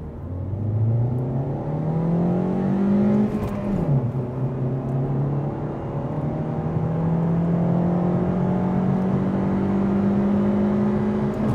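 Mazda 3's 105 hp petrol four-cylinder at full throttle, heard from inside the cabin during a 0–100 km/h acceleration run. The revs climb, fall with a gear change about three and a half seconds in, then climb slowly again until the next gear change at the end.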